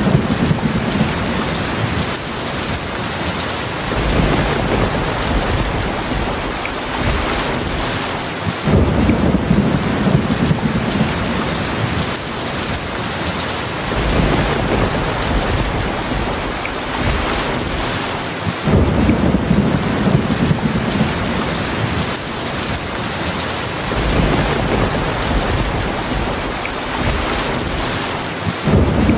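Heavy rain falling in a steady hiss, with low rumbles of thunder swelling and fading about every five seconds.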